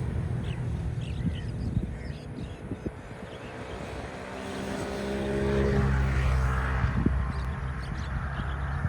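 Airliner landing, heard going over: its engine rumble and whine swell to a peak a little past the middle, then ease off.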